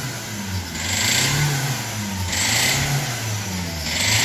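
Hyundai i20 common-rail diesel engine being revved, its note rising and falling several times as the throttle is blipped. The engine knocks 'tak tak' and misses, which the mechanic puts down to a jammed number 4 Delphi injector over-spraying diesel onto the piston.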